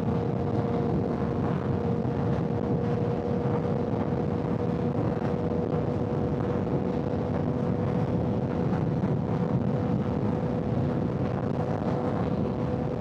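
Honda CBR600 motorcycle's inline-four engine cruising on the highway, holding one steady note with no gear changes or revving, over a haze of wind and road noise.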